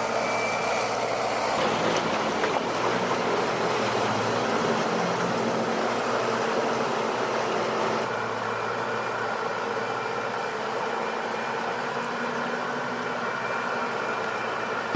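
A heavy vehicle's engine running steadily, a continuous mechanical drone. Its character shifts slightly about two seconds in and again about eight seconds in.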